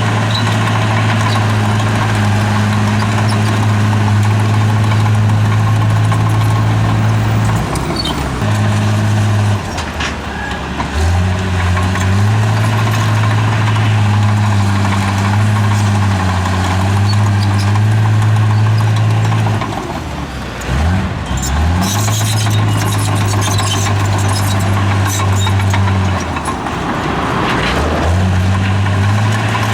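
Bulldozer's diesel engine running hard under load, its revs falling away and climbing back up several times, about 8, 10, 20 and 27 seconds in, with lighter clattering over it in the later part.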